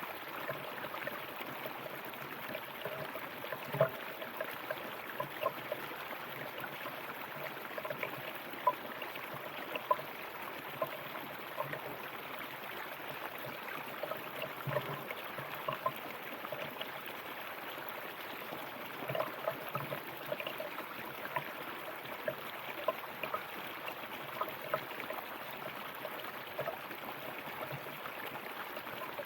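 A river running over stones: a steady rush of water with many small bubbling plinks and splashes scattered throughout.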